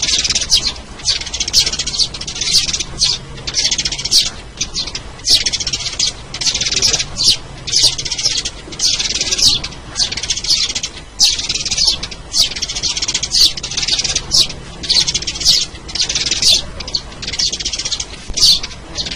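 Sparrows chirping in a busy, unbroken chatter: clusters of short, high chirps following one another about once or twice a second. It is a recorded sparrow call used as a lure to attract sparrows.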